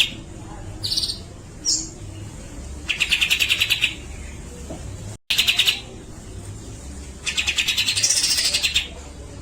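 Grey-cheeked bulbul (cucak jenggot) singing: three fast, buzzing rattled trills of about a second each, the 'besetan' song, with two short higher whistled notes between them. The last trill carries a rising and falling whistle over it. The sound breaks off for an instant about five seconds in.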